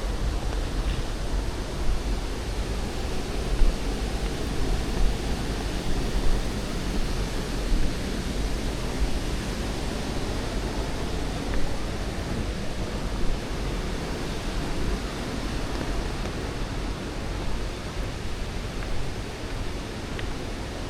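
Steady rushing of a waterfall, a dense even roar with a deep low rumble, with soft thuds every second or two, like footsteps.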